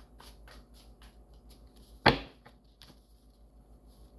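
A string of faint light clicks and ticks, with one loud, sharp knock about two seconds in.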